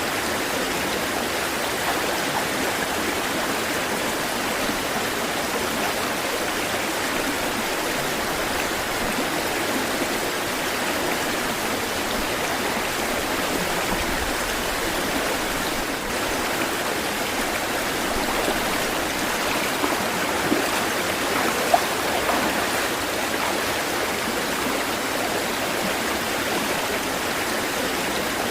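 Running water rushing steadily and evenly, without the rise and fall of breaking waves, with two brief sharp ticks about three-quarters of the way through.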